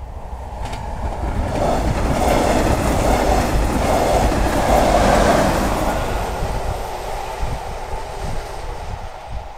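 Red double-deck passenger train rolling over a level crossing. Its running noise swells to a peak about two to five seconds in, then fades, with wheel clacks over the rail as it goes.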